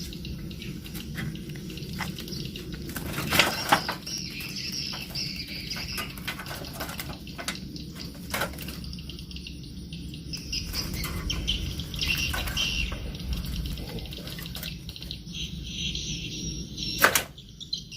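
A trapped bird being taken by hand out of a small trap cage: wing flapping and scuffling, with irregular clicks and knocks from handling the cage and patches of high chirping. A sharp knock comes near the end.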